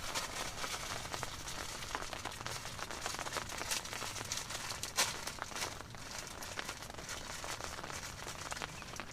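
Rain pattering on a tent, with crinkling and rustling close by and one sharper click about five seconds in.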